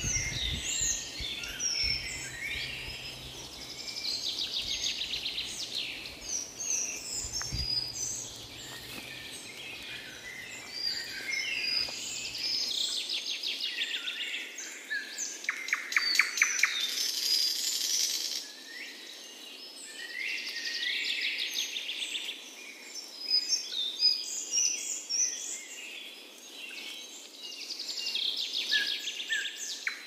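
Several forest birds singing and calling at once: overlapping whistles, chirps and fast trills, with the loudest trill bursts about halfway through and again near the end.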